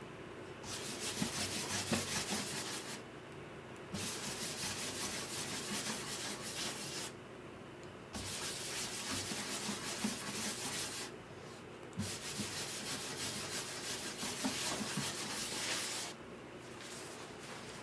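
Sandpaper rubbing on the wood of a guitar under repair, in four spells of a few seconds each with short pauses between them.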